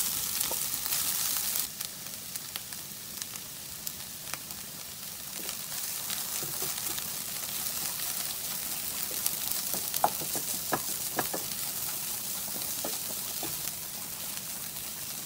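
Cauliflower rice sizzling in hot ghee in a frying pan as it is tipped in and stirred with a wooden spatula. The hiss is stronger for the first couple of seconds, then settles to a steady sizzle with scattered scrapes and taps of the spatula on the pan in the second half.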